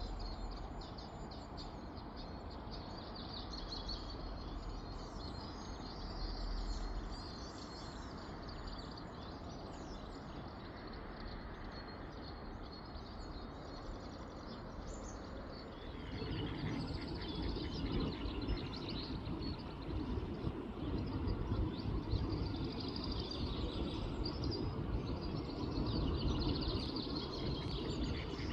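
Small birds chirping and singing over a steady outdoor background noise. About halfway through, the background becomes louder with a low rumble while the bird calls carry on.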